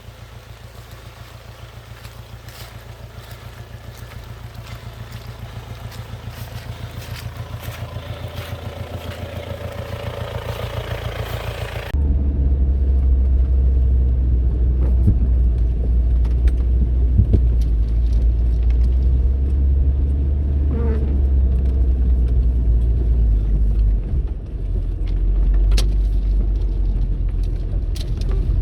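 Jeep Cherokee XJ's 2.5 L turbo diesel engine running with an even pulsing beat, growing steadily louder; about twelve seconds in the sound cuts suddenly to a loud, deep rumble of the engine close up, with a few knocks.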